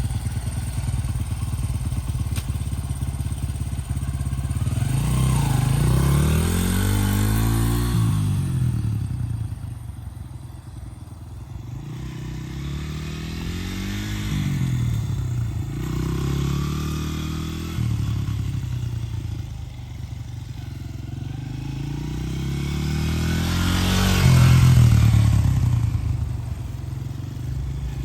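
Honda CRF80 dirt bike's small four-stroke single-cylinder engine revving as it is ridden, its pitch climbing and dropping several times as the throttle opens and closes. It fades away twice and is loudest near the end as it passes close.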